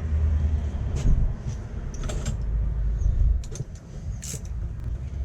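Socket ratchet being worked on stiff nuts: scattered sharp clicks and metal knocks over a steady low rumble.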